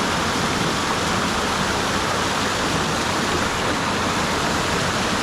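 Rushing creek water: a steady, even rush of water running over rocks.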